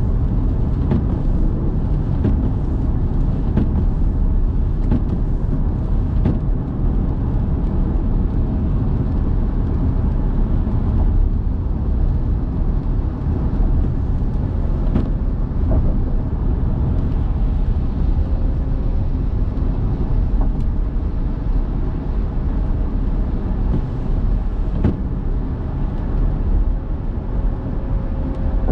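A car driving: steady low engine and road rumble, with scattered faint clicks.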